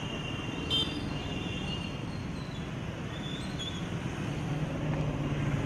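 Steady vehicle noise, with a brief high tone about a second in and a low hum growing louder towards the end before the sound cuts off suddenly.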